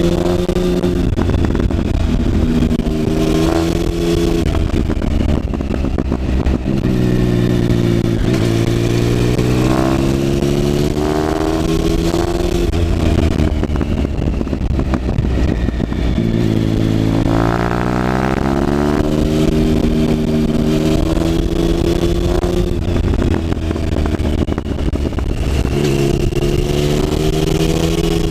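Triumph Speed Triple's three-cylinder engine pulling hard and backing off through a run of bends. Its note climbs and drops several times over steady wind noise.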